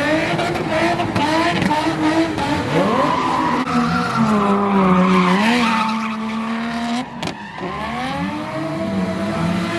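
Car engine revved hard again and again, its pitch climbing and falling, held high for a couple of seconds in the middle, with a brief drop just after seven seconds in.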